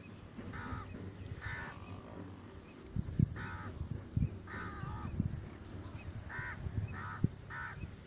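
A bird giving short, cawing calls about seven times, singly and in quick pairs. Several low thumps run underneath, the loudest about three seconds in and again near the end.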